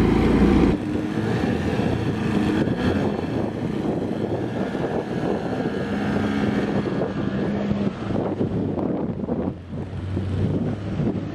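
Small pull-start outboard motor running steadily on a wooden skiff. Its level drops suddenly less than a second in, and its note steps down lower about eight seconds in.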